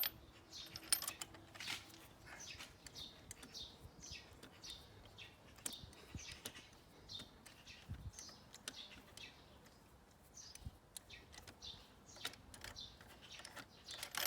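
Small bird chirping over and over in short falling chirps, about one or two a second, with a few scattered light clicks of hand tools.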